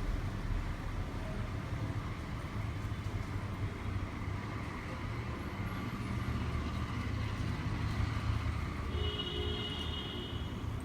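Steady low rumble of outdoor background noise, with a brief high pitched sound about nine seconds in.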